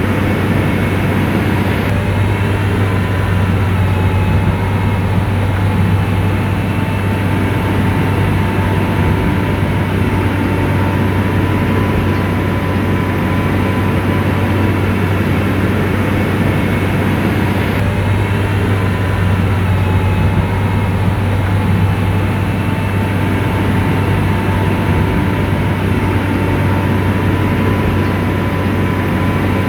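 A motor grader's diesel engine running steadily, a deep hum with a faint steady whine above it.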